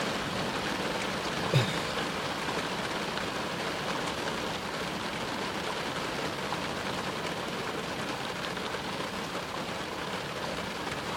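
Steady rain falling on a car, heard from inside it, as a thunderstorm eases off. A single brief knock comes about one and a half seconds in.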